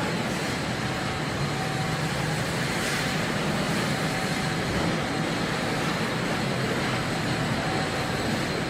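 Steady machinery noise of a truck assembly hall: an even rush with a low hum and a few faint whining tones, unchanging throughout.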